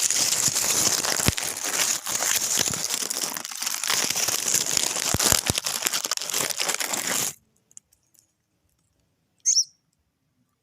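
Dense crinkling and rustling with scattered clicks, cutting off suddenly after about seven seconds; a single short high bird chirp follows about nine and a half seconds in.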